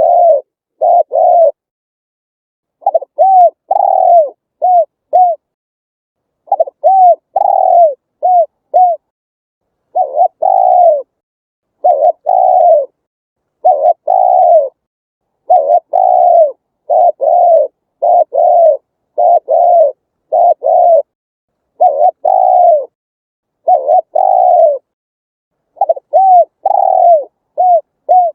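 Spotted dove cooing: short phrases of two to five low, falling coos, repeated over and over with brief silent pauses between phrases.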